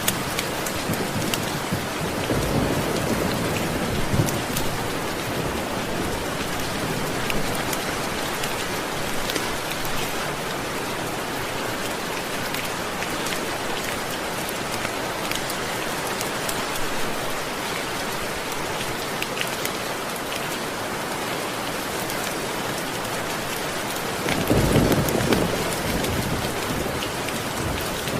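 Steady rain falling, with two low rolls of thunder: one a couple of seconds in and a louder one near the end.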